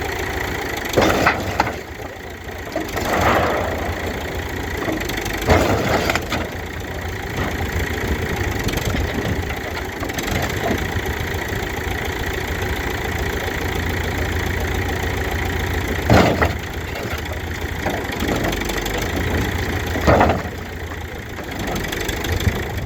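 Backhoe engine running steadily, with loud impacts and breaking as the camper's body is smashed: about five sharp crashes, the strongest near the middle and towards the end.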